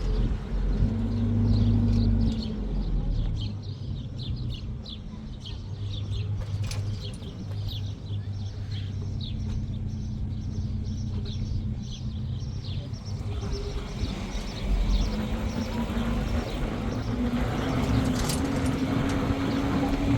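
An engine running steadily with a low hum, its pitch rising over the last few seconds, while birds chirp repeatedly over it for the first two-thirds or so.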